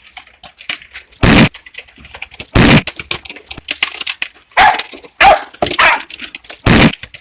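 Dog barking loudly, about six sharp barks at irregular gaps of roughly a second.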